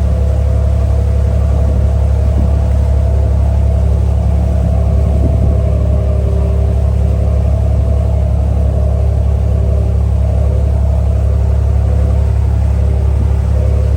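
Ferry's engine running at a steady speed: a loud, even low drone with a steady hum above it.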